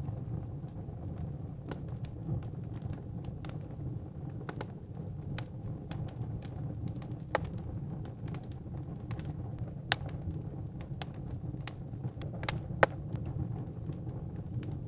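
Firewood burning in a fireplace: a steady low rumble of flames with scattered sharp crackles and pops, the loudest pop near the end.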